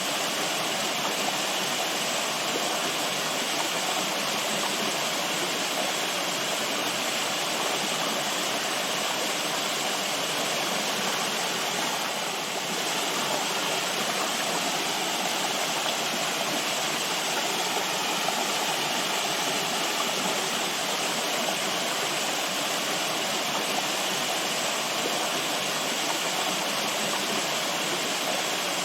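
Running water rushing steadily, as of a stream or small waterfall, with an even hiss and no change in level.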